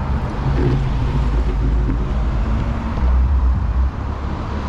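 Steady low rumble of wind on the microphone and road noise while cycling a Brompton folding bike along a main road, with motor traffic mixed in.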